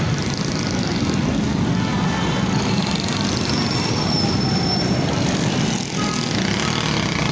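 Motorcycle running steadily on the road, with a dense engine and road-noise drone that dips briefly about six seconds in.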